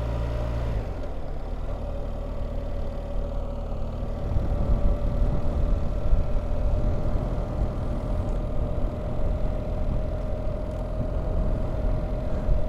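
BMW R1300GS boxer-twin engine running as the motorcycle is ridden. The note is smooth for the first few seconds and turns rougher and more uneven about four seconds in.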